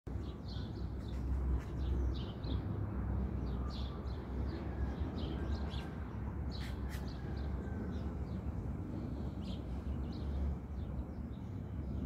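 Small birds chirping in short, quick notes again and again, over a steady low rumble, with two sharp clicks about seven seconds in.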